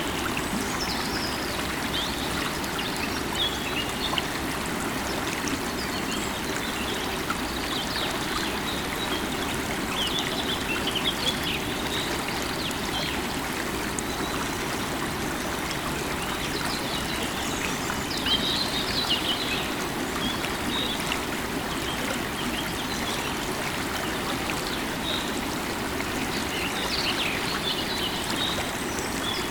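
River water running steadily, with birds chirping now and then above it, clearest about ten seconds in, near the middle and near the end.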